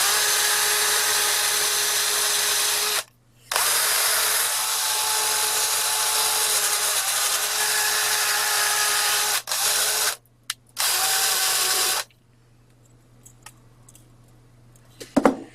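Handheld electric power tool running with a steady high motor whine. It is briefly let off about three seconds in and twice around ten seconds, then switched off about twelve seconds in.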